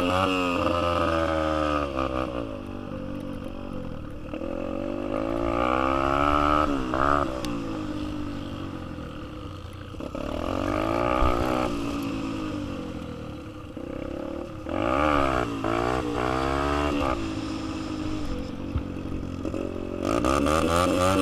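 Dirt bike engines running while being ridden, revving up and easing off over and over, the pitch rising and falling. Around two-thirds of the way through, a second engine's pitch is heard crossing the first.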